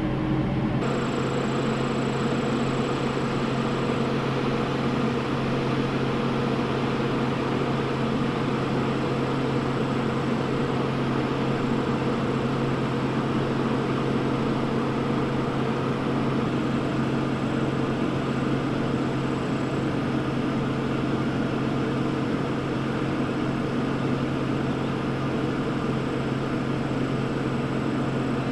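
A motor running steadily with a constant low hum and an even rushing noise, unchanged throughout.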